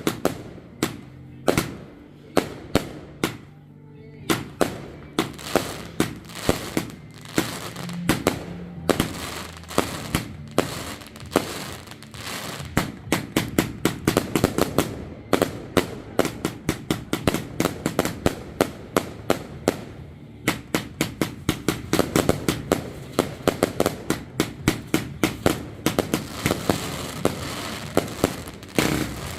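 Firework barrage finale: a rapid string of sharp bangs, a few per second at first, then coming faster and denser, several per second, through the second half.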